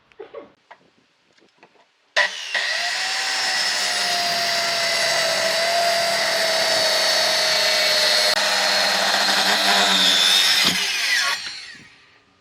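Electric woodworking power tool starting up about two seconds in and running steadily with a whining motor for about nine seconds, then winding down near the end. Light knocks come before it starts.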